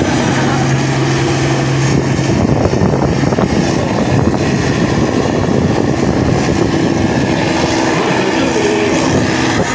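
Farm tractor engine running hard at high throttle under load while pulling the weight sled, a loud steady drone.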